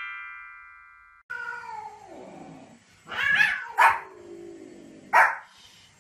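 A short musical chime fades out over the first second. Then a small white spitz-type dog barks sharply three times, with long drawn-out falling cries before and between the barks.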